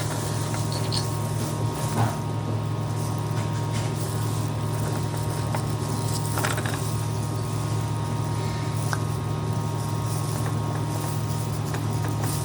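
A steady low hum, with a few faint clicks and knocks.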